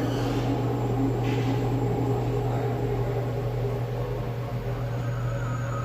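A steady low electrical or mechanical hum with faint higher tones over it, unchanging throughout.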